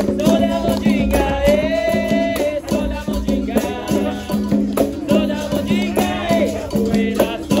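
Capoeira roda music: berimbau with a shaken caxixi rattle and hand percussion keeping a steady beat, under sung phrases from the voices in the circle.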